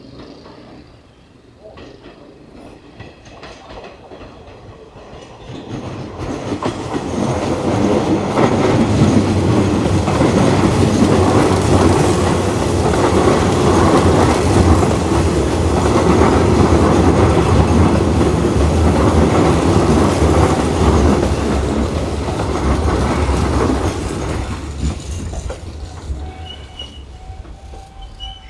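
A Hanshin Railway electric train running through, building up about six seconds in, staying loud through the middle, then fading away near the end.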